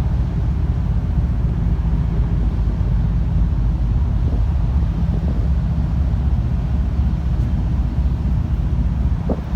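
Steady low rumble of wind buffeting the microphone aboard a car ferry, mixed with the ship's running noise.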